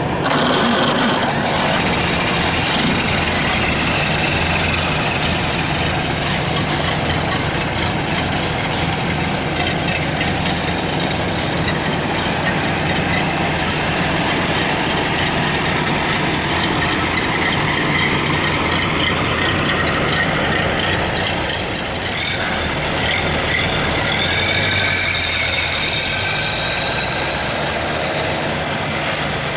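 1929 Ford Model A pickup's inline four-cylinder flathead engine running steadily, first heard idling close up and then under way as the truck drives past and pulls away.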